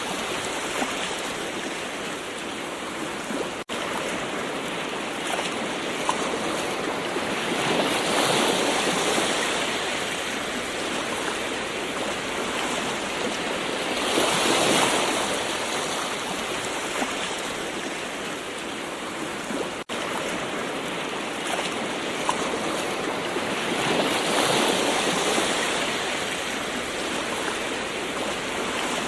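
Gentle ocean waves washing in continuously, swelling and easing every several seconds. The sound drops out for an instant twice.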